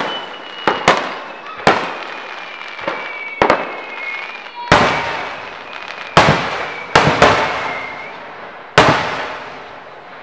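Aerial fireworks shells bursting: about ten sharp bangs at uneven spacing, each echoing away, with a faint high whistle sliding slowly down in pitch behind them. The last bang comes near the end and dies away.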